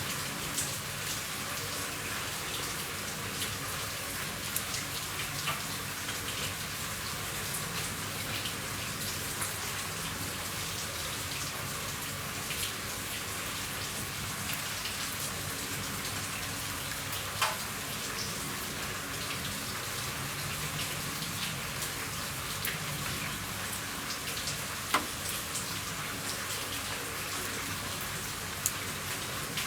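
Steady rain falling on a roof, with scattered louder single drops; a few sharp drop impacts stand out a little past halfway and near the end.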